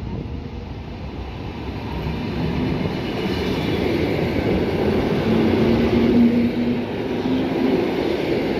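EN57AL electric multiple unit running past, getting louder over the first few seconds, with a low steady hum in the noise of the wheels.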